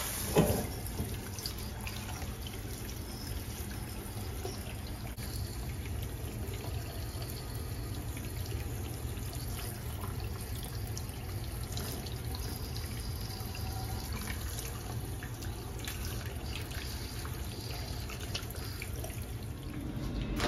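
Steady trickle of running water, with a brief knock just after the start.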